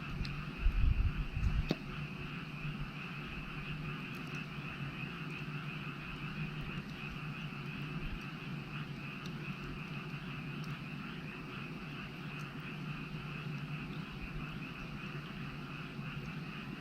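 A frog chorus calls steadily, with a few sharp crackles from a wood fire. A brief low rumble comes about a second in and is the loudest sound.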